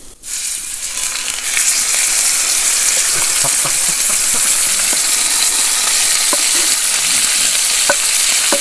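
Steak sizzling loudly as it sears over a campfire: a steady frying hiss with scattered small pops and crackles, starting abruptly just after the beginning.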